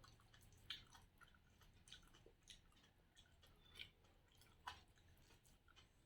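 Faint wet chewing and lip smacks of someone eating rice with sambar and chicken gravy by hand, a scatter of small clicks and squelches a few times a second.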